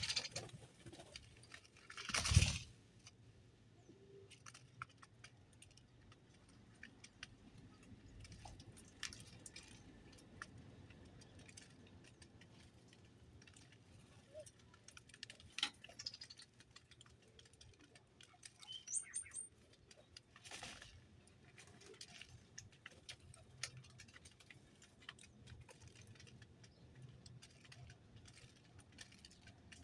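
Small birds feeding: many faint scattered ticks and pecks, a brief loud rustle a couple of seconds in, and a few short high chirps about two-thirds of the way through.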